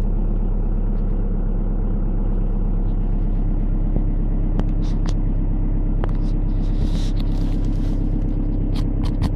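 Audi 1.9 TDI four-cylinder turbodiesel idling steadily in deep cold, shortly after a cold start at −26.5 °C. A few faint ticks and short hisses come in over the second half.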